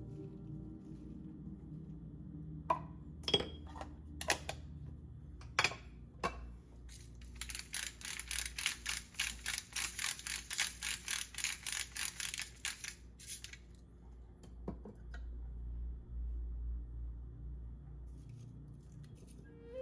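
Chef's knife chopping on a wooden cutting board: a few separate knocks, then a quick, even run of chops at about four a second for some six seconds, and one last knock.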